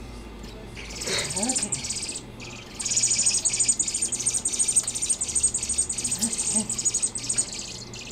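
Fledgling birds calling in a rapid, high-pitched, buzzing chatter while being spoon-fed: begging calls for food. The calls start about a second in, break briefly, then run on without a pause.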